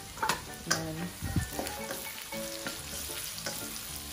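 Chopped garlic and onion sizzling in hot oil in a nonstick wok, with a spatula stirring and scraping the pan in several sharp clicks.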